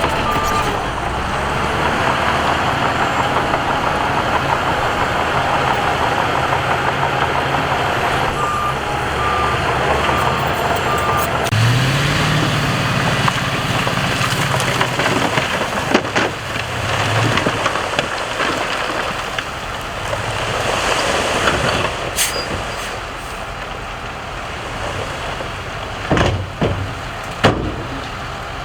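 Heavy diesel machinery running, with a reversing beeper sounding in short even beeps at the start and again around the middle. Around the middle an engine revs up, and near the end a few sharp knocks and clanks follow.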